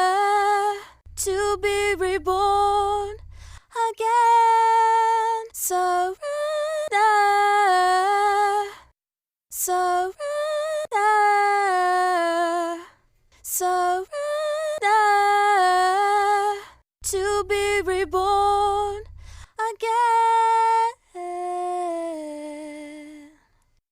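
Female voice singing a slow melody without words, in held notes and phrases a few seconds long, with a faint low pulse under two of the phrases; the last phrase fades out near the end.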